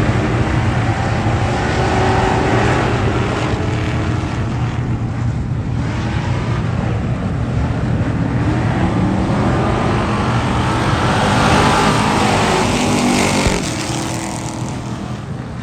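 Race car engines running on the track, their pitch rising and falling as the cars go by. Loudest about twelve seconds in, then easing off near the end.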